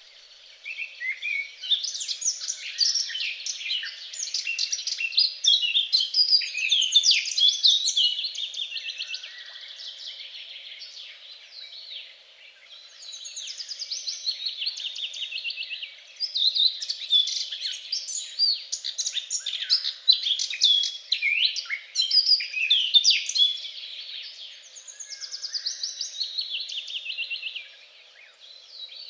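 Songbird singing in long, fast, warbling phrases, four bursts with short pauses between them.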